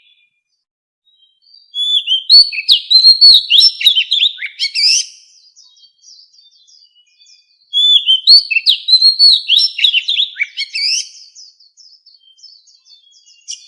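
Oriental magpie-robin singing its wild-type song: two loud phrases of quick, sliding whistled notes, each about three seconds long. The first begins about two seconds in and the second near the middle, with softer scattered notes between and after them.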